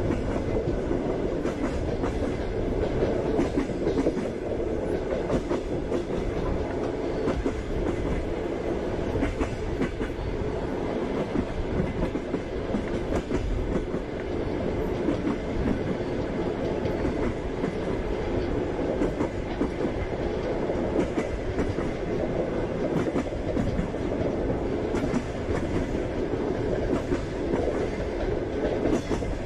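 Passenger train wheels clattering over the rail joints, over a steady rolling rumble, with the train running at speed.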